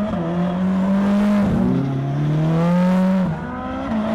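Ferrari 458 Speciale's 4.5-litre naturally aspirated V8 at full throttle, its pitch climbing through the gears, with two quick upshifts where the pitch drops, about a second and a half in and again after about three seconds.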